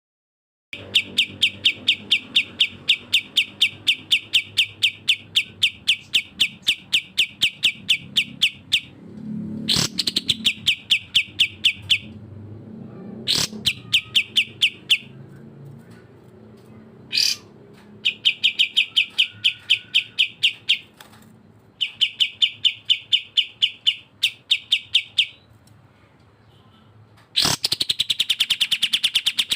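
Recorded songbird calls: long runs of sharp, evenly repeated notes at about five a second, broken by short pauses, the rapid 'tembak' delivery of a kapas tembak call. Three quick falling whistles cut in, about ten, thirteen and twenty-seven seconds in.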